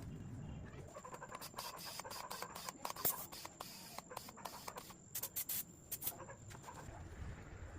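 An irregular run of short scratches and clicks, loudest about three seconds in and again near the end.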